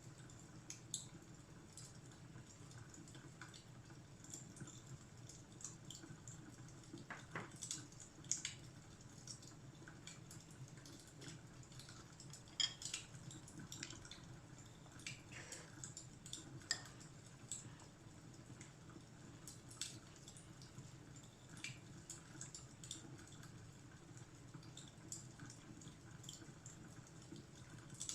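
Fire crackling in a fireplace: irregular small pops and snaps over a faint low hum, with one louder snap near the middle.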